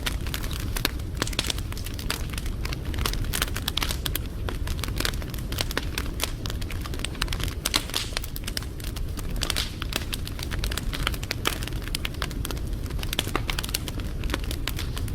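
Wood fire burning, with dense, irregular crackling and popping over a steady low rumble.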